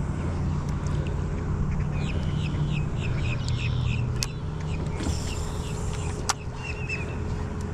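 Birds calling in short, quickly repeated notes over a steady low rumble, with one sharp click about six seconds in.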